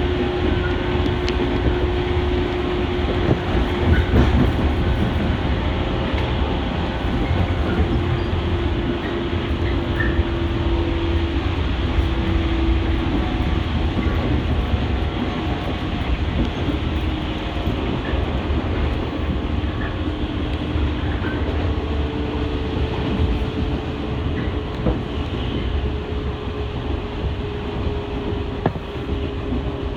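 Shinano Railway 115 series electric train running along the line, heard from inside the passenger car: a steady rumble of wheels on rail with faint clicks of rail joints, and a steady hum whose pitch shifts up about two-thirds of the way through.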